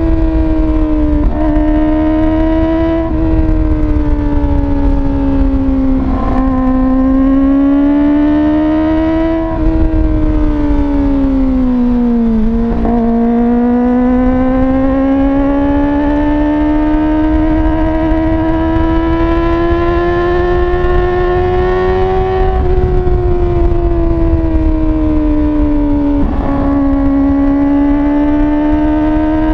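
Kawasaki ZX-25R's 249 cc inline-four running at high revs through an Akrapovič slip-on exhaust with no dB killer, a high-pitched engine note. The pitch rises and falls slowly, with short breaks where it steps about seven times, and dips lowest about twelve seconds in before climbing back.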